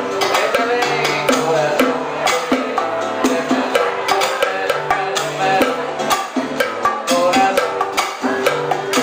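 Live Cuban dance band playing an instrumental stretch: a steady, quick clave-and-percussion pattern over bass and sustained melodic notes.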